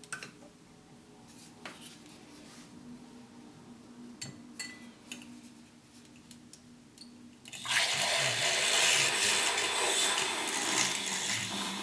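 A few light clicks and clinks of kitchen things being handled, then about eight seconds in a steady rushing noise starts suddenly and runs on, much louder.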